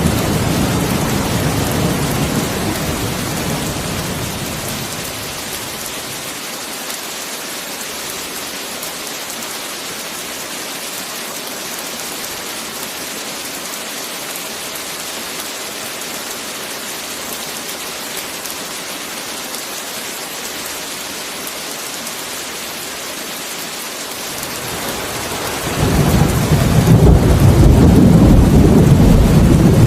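Heavy rain falling steadily with thunder. A low rumble of thunder dies away over the first few seconds, then there is rain alone, and a louder roll of thunder swells in near the end.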